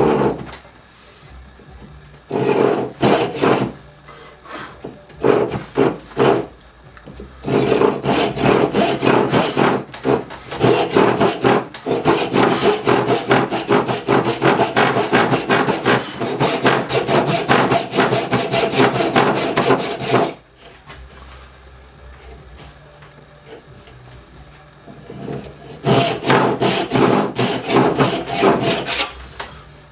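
Hand tool worked back and forth on wood in quick, rhythmic strokes: a few short bursts at first, a long run of about twelve seconds in the middle, then another spell near the end.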